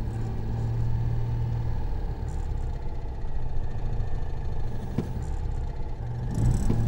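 A car engine running steadily, a low even hum, with a single sharp click about five seconds in.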